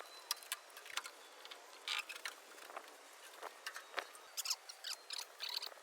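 Faint, irregular clicks, taps and scratchy rustling of an MGB GT roof headliner and its trim being worked loose and handled by hand.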